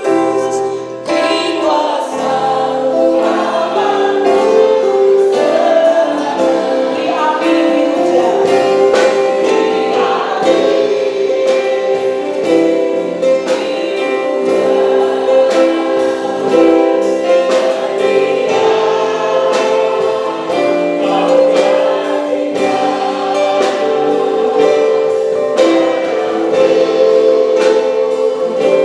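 Christian worship song: several voices singing together over a live band, with a steady beat.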